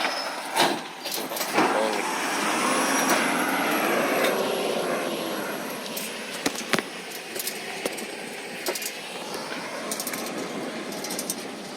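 Recycling truck running, with a thin high whine and shifting mechanical tones swelling for a few seconds from about two seconds in, and several sharp metallic clanks.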